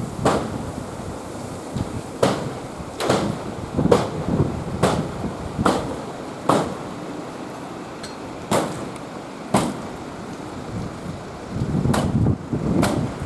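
A series of sharp knocks or bangs, about one a second for the first several seconds and then more spaced out, over steady gusty wind noise on the microphone.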